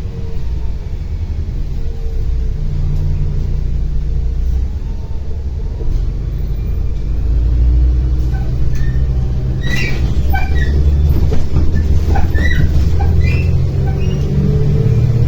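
Inside a MAZ-105 articulated city bus on the move: its engine and drivetrain run with a low rumble and a whine that slides in pitch, growing louder about halfway through as it picks up speed. Short rattles and squeaks from the bus body come in the second half.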